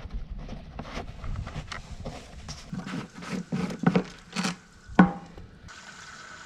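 Irregular clicks and knocks, as of objects being handled, with a sharp knock about five seconds in. Near the end they give way to a steady hiss with a faint whine.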